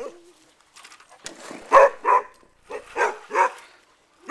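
A dog barking in a quick run of short barks, about six over two seconds, the loudest a little under two seconds in.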